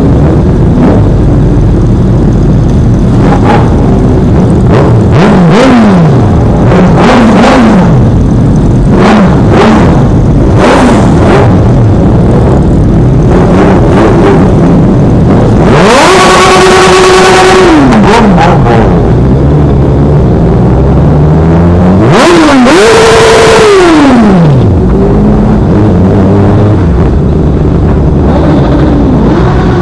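Sport motorcycle engines revving loudly: a run of short throttle blips in the first half, then two long revs about 16 and 22 seconds in, each climbing, holding high and falling away.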